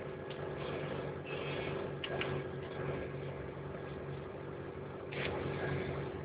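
Car engine idling with a steady low hum, heard from inside the cabin, with a couple of brief faint clicks.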